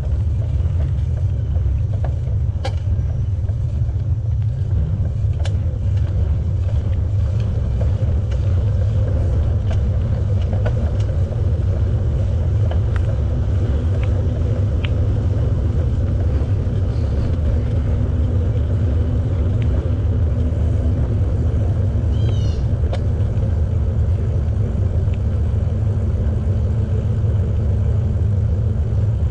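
Wind rumbling steadily on the camera's microphone while riding a bicycle, with light ticks and rattles from the bike and trail. A short run of high chirps comes about two-thirds of the way through.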